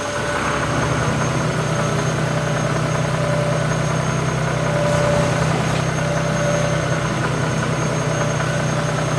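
Heavy diesel engine of quarry machinery running steadily with a low, even hum.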